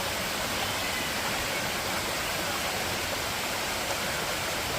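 Waterfall with its stream, rushing steadily.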